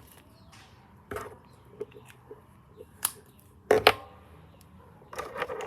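Colouring pen and paper being handled while drawing: a series of irregular sharp clicks and taps, the loudest a close pair about two-thirds of the way through and a short cluster near the end.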